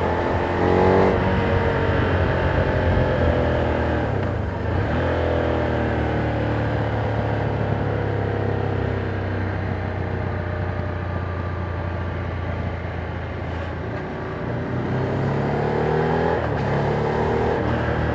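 Ducati Monster 797's air-cooled V-twin running on its stock exhaust while riding. It revs up and shifts about a second in and again at around four to five seconds, runs steadily through the middle, then pulls up in revs once more near the end.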